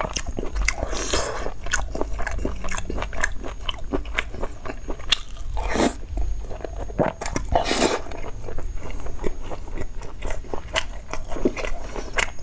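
Close-miked chewing of soft braised beef and fat: a steady run of wet mouth clicks and smacks, with a few louder moments around the middle.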